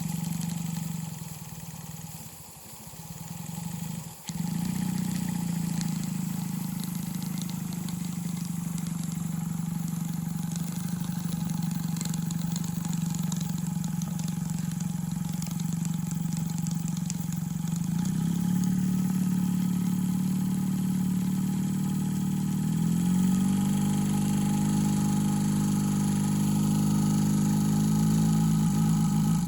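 Rocking Whale BL1K single-cylinder double-acting model steam engine running steadily at speed. Its sound drops away for a moment near the start, then picks up abruptly about four seconds in. The pitch shifts and rises later on as the running speed changes.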